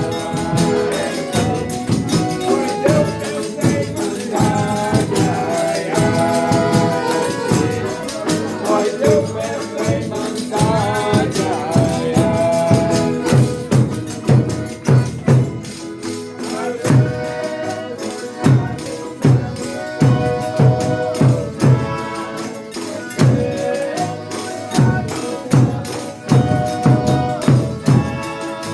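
Brazilian Folia de Reis ensemble playing: sung or held melodic lines over a pandeiro-style tambourine and shaken percussion keeping a steady beat.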